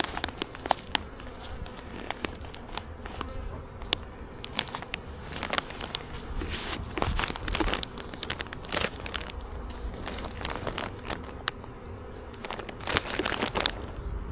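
Honeybees buzzing as they fly around a just-closed hive, with many short clicks and crackles from handling and bees knocking against things close by.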